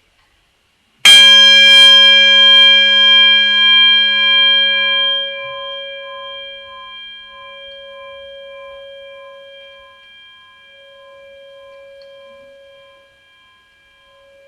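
A metal bell struck once, about a second in. It rings out with several pure tones that fade slowly, and the lower-middle tones pulse gently as they die away.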